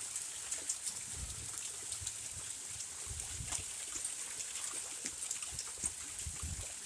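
Hailstorm: hailstones falling and striking, many small scattered clicks over a steady hiss of running water and rain.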